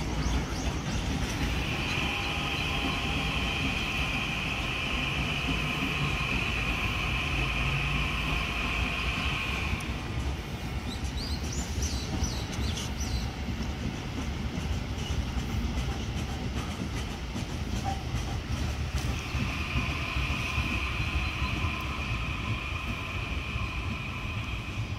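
Electric passenger train rolling slowly over station tracks, with a steady low rumble. A high, steady squeal runs from about two to ten seconds in and comes back near the end.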